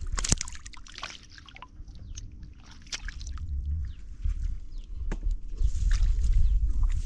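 Water sloshing and trickling as it is stirred by hand, with a few sharp knocks about a second or two apart and a low rumble that fades in the middle and comes back near the end.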